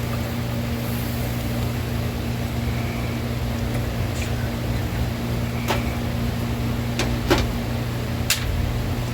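A steady low machine hum, with a handful of sharp clicks of a utensil against the pan, the loudest about seven seconds in, as a cream sauce is stirred.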